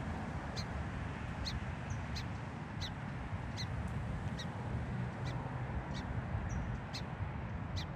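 Song sparrow giving a steady series of sharp chip calls, about one every half to three-quarters of a second, over a steady low background rumble.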